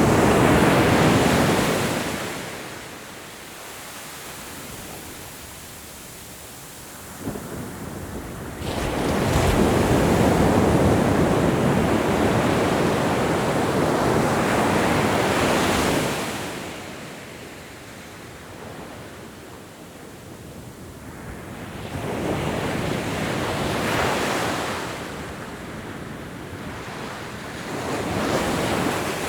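Ocean waves surging in and washing back in slow, uneven swells. The biggest wave comes about a third of the way in, and smaller ones follow near the end.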